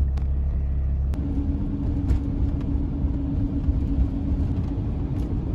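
A vehicle on the move: steady engine and road rumble, with a steady low drone that sets in about a second in.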